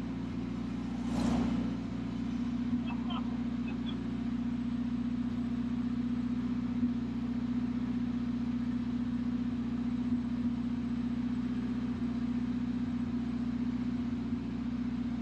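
Turbocharged Honda K-series inline-four in a Smart car idling steadily, heard from inside the cabin. Another car passes by about a second in.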